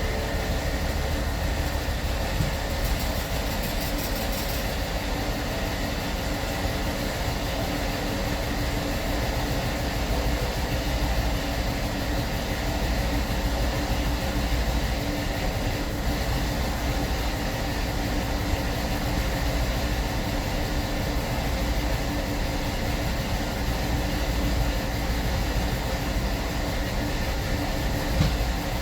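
2003 BMW 745Li's 4.4-litre V8 running steadily at idle while misfiring. The car logs misfires with fuel cutoff on cylinders 8, 3, 7, 6 and 4 and camshaft position sensor faults, which began after new spark plugs and ignition coils were fitted.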